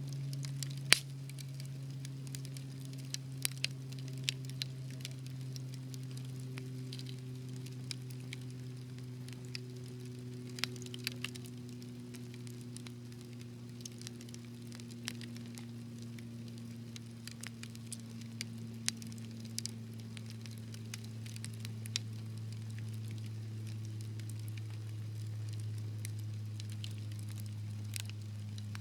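Wood fire crackling in a fireplace, with scattered sharp pops, the loudest about a second in. Underneath runs a low steady hum that slowly drifts down in pitch.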